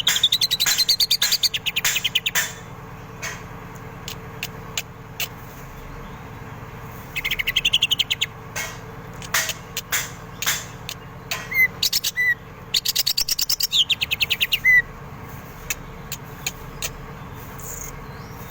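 Green leafbird (cucak ijo) singing: three bouts of fast rattling trills, one at the start, one about 7 seconds in and one about 13 seconds in, with sharp single chips between them. The song carries imitations of kingfisher (tengkek) calls.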